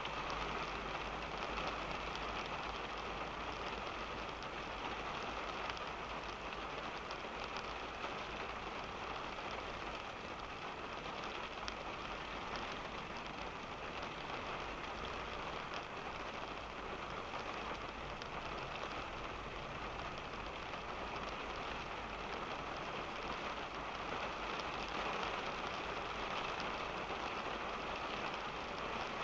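Steady rain striking a car's body and glass, heard from inside the cabin as a dense hiss of many small drop ticks, over a steady low rumble of the car.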